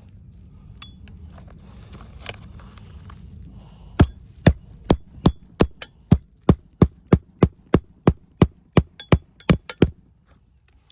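Hammer driving roofing nails into asphalt shingles: a steady run of about eighteen sharp strikes, roughly three a second, starting about four seconds in and stopping about a second before the end. Before it, a low hum and a couple of light knocks.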